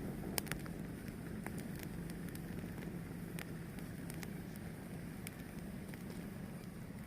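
A fire burning: a steady low rumble with scattered sharp crackles and pops, the loudest about half a second in.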